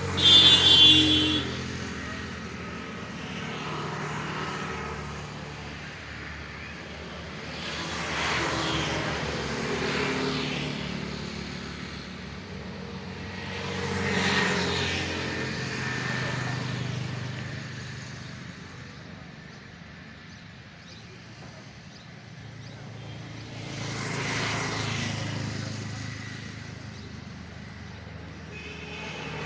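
Road traffic: vehicles pass one after another, each swelling and fading over a few seconds, about three times, over a steady low engine drone. A loud, short, high-pitched sound comes at the very start.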